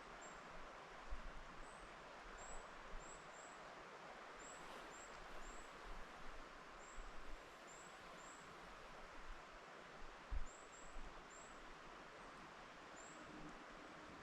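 Wind rustling through forest trees as a soft, steady hiss. Over it come short, very high chirps, repeated at irregular intervals of about half a second to a second, and a few soft low bumps.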